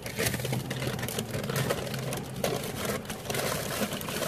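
Car engine idling with a steady low hum, under frequent small clicks and rustles of eating and handling food.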